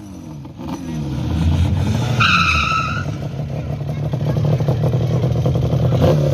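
Car engine falling back in pitch after a rev, then running steadily and slowly building, with a brief high-pitched squeal about two seconds in.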